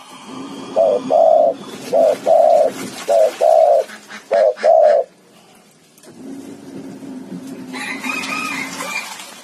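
Dove cooing: four short-then-long coo phrases about a second apart, repeated in a steady rhythm. After them comes a quieter, lower, steadier sound with a higher wavering tone near the end.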